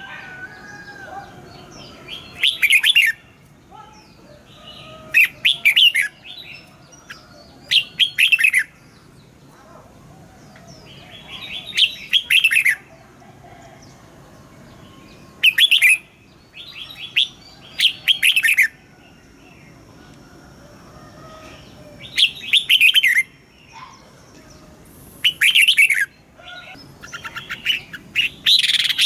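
Red-whiskered bulbul singing: short, loud phrases of rapid whistled notes, about nine of them, repeated every two to three seconds with quieter chirps in between.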